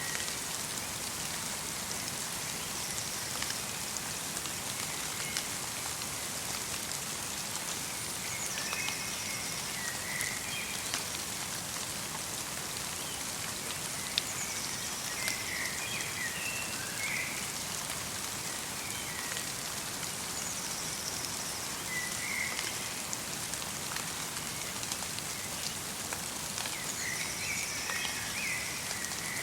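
Light rain mixed with falling snow pattering steadily on the forest, with scattered individual drops ticking. A small songbird gives short twittering calls several times.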